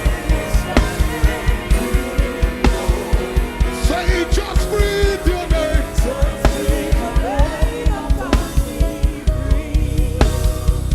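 Live worship band music with a fast, even pulse of drums and bass, about four beats a second. A sliding melodic line runs over it from about four to eight seconds in.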